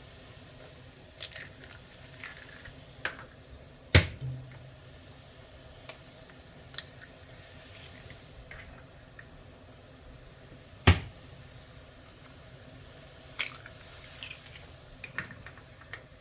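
Eggs being cracked and dropped whole into a pot of soup: two sharp knocks about seven seconds apart, with smaller clicks and handling sounds between them.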